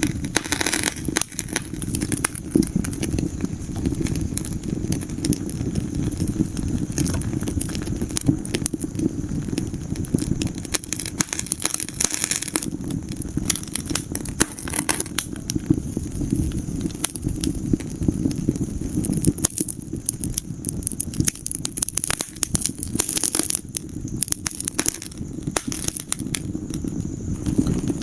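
Wood fire burning in a fireplace: a steady low rumble of the flames with dense, irregular crackles and pops from the burning logs.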